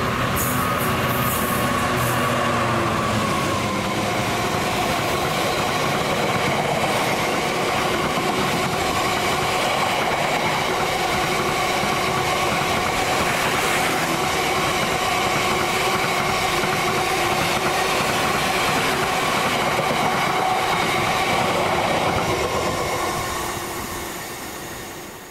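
A train running past at speed: steady rolling noise from the wheels on the rails, with a steady whine, fading out near the end.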